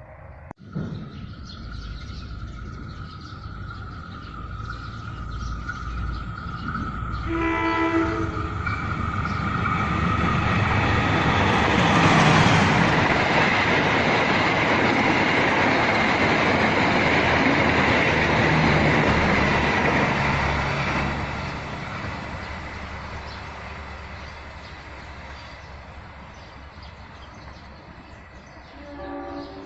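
A train approaching, passing close by with rising and then fading rail and wheel noise, loudest for several seconds in the middle. It sounds a short horn blast about eight seconds in and another short one near the end.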